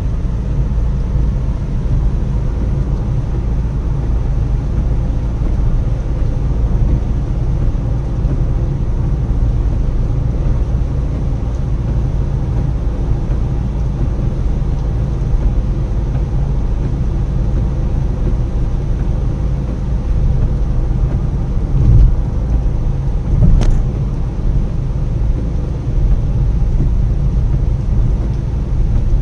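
Car driving on a road: a steady low rumble of tyres and engine, with two brief thumps and a sharp click about three-quarters of the way through.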